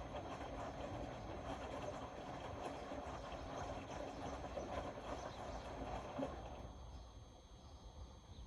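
Indesit Innex BWE 91496X washing machine running a wash, its drum turning with a steady rumble. The sound dies down about six and a half seconds in.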